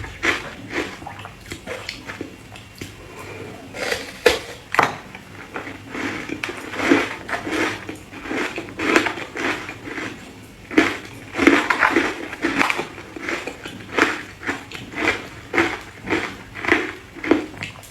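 Ice being bitten and chewed: a run of crunches, sparse at first, then about one or two a second from about four seconds in.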